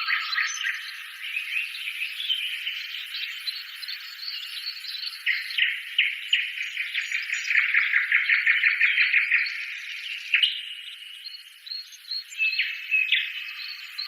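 Birds chirping and trilling: rapid high chirps and short rising calls, with a fast dense trill in the middle.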